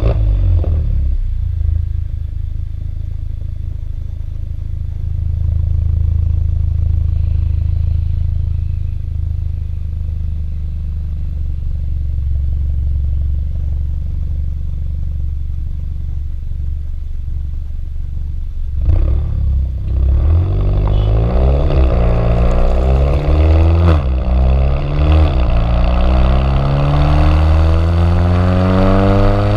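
Volkswagen GTI 1.8 TSI turbo four-cylinder with an aftermarket custom exhaust starting up and settling into a steady idle. About two-thirds of the way in it is revved in several quick blips, then held in a longer rev that climbs steadily in pitch near the end.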